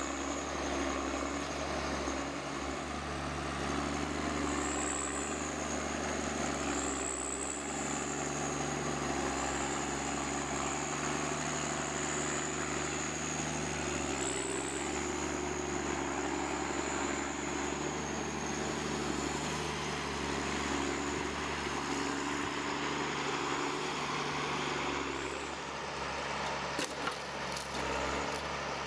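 A machine's engine running steadily, with a high whine that wavers slightly in pitch. A few sharp clicks come near the end.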